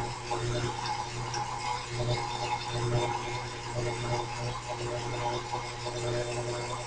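Milling machine running with a drill bit fed into metal: a steady motor hum with a few fixed tones above it.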